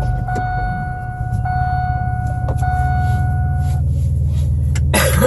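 Vehicle engine idling with a steady low hum, under a steady high electronic tone that stops about four seconds in; a short rustling burst near the end.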